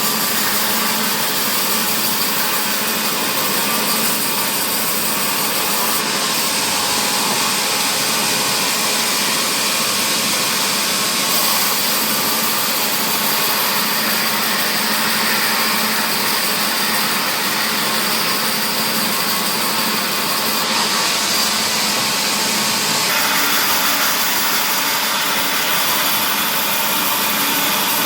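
Sawmill machinery running steadily while processing mahogany timber, a continuous mechanical noise whose high-pitched part shifts in level a few times.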